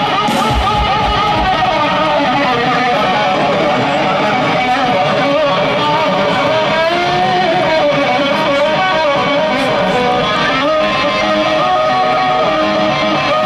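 Rock band playing live, led by electric guitar with sustained notes that bend in pitch.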